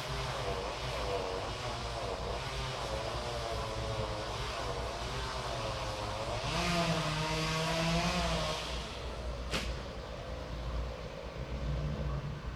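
Chainsaw engine running and revving up and down as it cuts, louder for about two seconds in the middle, with a single sharp crack a little later.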